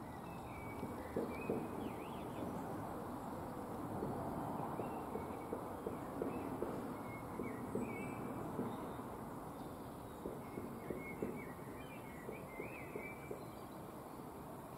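Small birds chirping, with short high calls scattered throughout, over a steady low outdoor background rumble. A few soft clicks stand out now and then.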